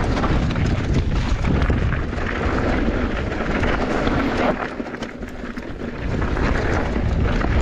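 Mountain bike riding down a trail: steady wind buffeting on the camera microphone and tyre rumble, with many sharp clicks. The noise eases for about a second and a half midway, then picks up again.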